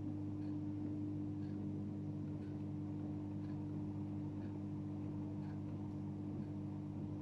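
2007 AEG Öko-Lavamat 76910 washing machine running mid-cycle: a steady hum with a constant tone, and a faint tick about once a second.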